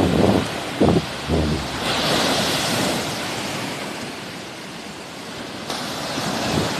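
Sea waves washing onto the shore, a surge of hiss swelling about two seconds in and fading away. Wind buffets the microphone in the first second or so.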